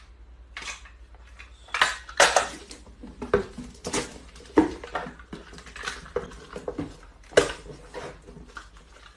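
Irregular clattering and clinking of hard objects, a series of sharp knocks at uneven intervals.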